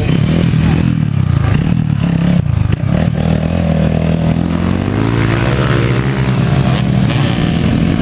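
Motocross motorcycle engines revving, several at once, their pitch rising and falling.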